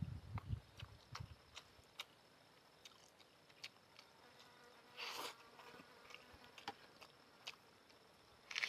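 Close-miked eating of noodles: soft chewing in the first second or so, then scattered wet mouth clicks, with a short breathy burst about five seconds in and another near the end.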